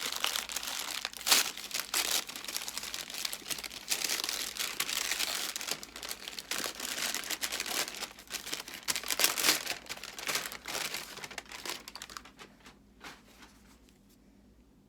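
Packaging crinkling and rustling as it is handled and opened by hand, in dense, irregular crackles that die away about twelve seconds in.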